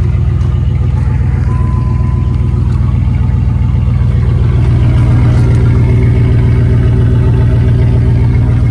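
Pickup truck engine running steadily with the muffler cut off, its exhaust open straight out of the pipe; a low, even exhaust drone that grows a little louder from about five seconds in. It does not sound much different from stock.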